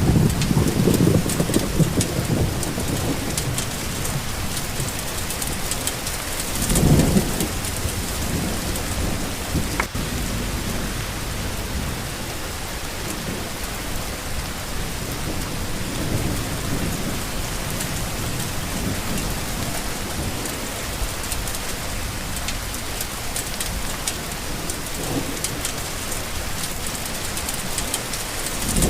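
Steady heavy rain hissing and pattering, with low rolls of thunder rumbling at the start, about seven seconds in, and again near the end.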